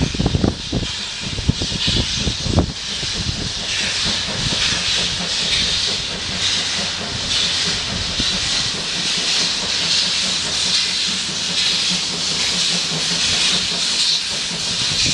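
Steam locomotive standing at a station and venting steam: a steady hiss, with a few low knocks in the first few seconds.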